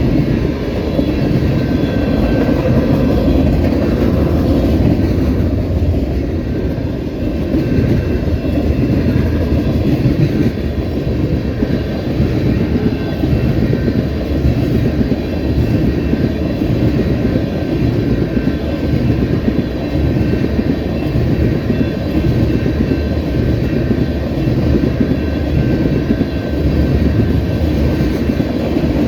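Freight train rolling past at close range: a steady low rumble of the cars with continuous clatter of wheels over the rail joints.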